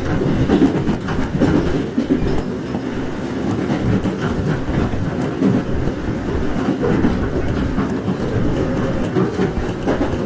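Running sound inside a 415 series 1500 subseries electric train car: steady rumbling of the wheels on the rails, with short clicks as the wheels pass over rail joints.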